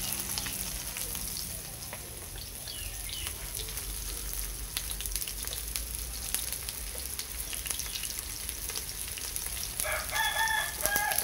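Soy-based vegetarian 'meat' and tofu sizzling in hot oil in a frying pan, with steady crackling pops as chopsticks turn the pieces. A rooster crows briefly near the end.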